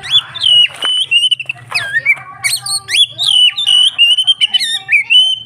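Oriental magpie-robin (kacer) singing loudly: a run of clear, varied whistled phrases with quick upward and downward swoops, scarcely pausing.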